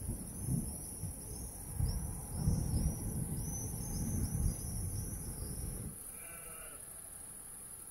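Rolling thunder rumbling low in several swells for about six seconds, then fading. About six seconds in comes one short bleat, like a sheep's, while small high chirps repeat throughout.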